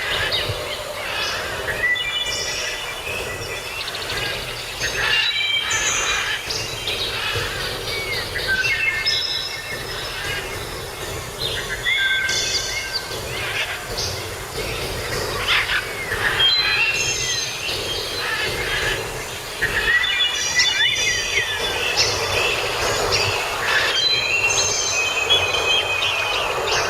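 Several birds calling and singing with short whistled notes, trills and pitch glides, over a steady background hiss.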